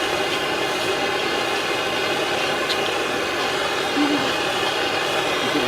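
Handheld gas blowtorch burning with a steady hiss of flame while heating a copper pipe joint for soldering.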